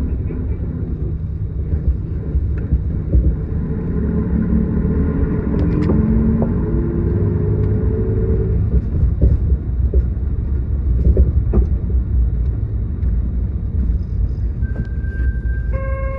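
Route bus diesel engine running under way, heard from inside the cabin: a steady low rumble whose pitch rises as the bus accelerates, from about four seconds in until about eight seconds in. Near the end a steady electronic tone sounds.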